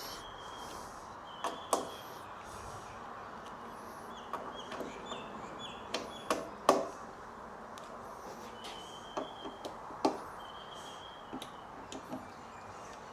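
Scattered metallic clicks and knocks of an Allen key and fittings as an aftermarket windshield is bolted onto a Kawasaki Ninja 500, loudest about six to seven seconds in. Short high-pitched chirps come several times in between.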